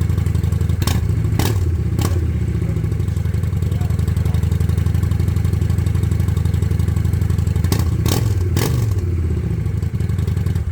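Honda Shadow Aero VT750C's V-twin running loud through an aftermarket TJ Brutal exhaust, idling with two sets of three quick throttle blips, about a second in and again about eight seconds in. Each blip opens with a sharp crack and the pitch jumps up and falls back.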